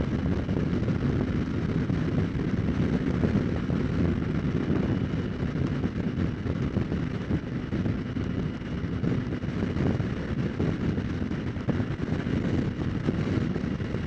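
Steady wind rush over a helmet-mounted microphone with the Kawasaki Ninja 300's parallel-twin engine running underneath at an even cruise, with no revving or gear changes.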